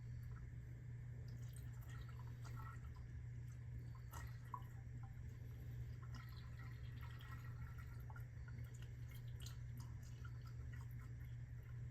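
Faint trickling and dripping of fresh motor oil running through a funnel into the engine's oil filler, with scattered small clicks over a steady low hum.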